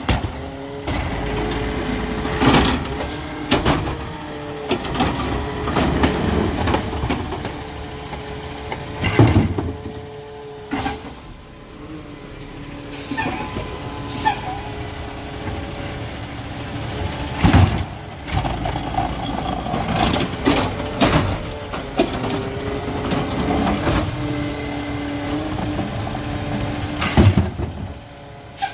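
McNeilus ZR automated side-loader garbage truck working: the engine revs and eases off in steady tones as the hydraulics run, broken by several sharp metallic bangs and air-brake hisses.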